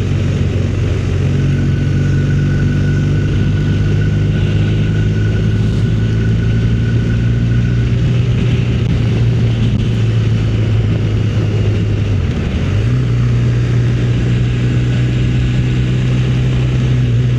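Motorcycle engine running steadily while riding along the road, with a brief dip in the engine note about twelve seconds in, after which it holds a slightly higher steady note.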